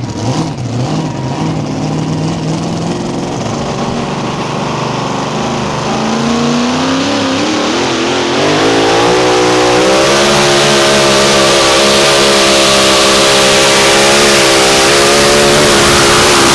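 Mini rod pulling tractor's engine revving: its pitch climbs from about six seconds in, then holds a loud, steady high-rpm run, as when the tractor goes to full power on a pull.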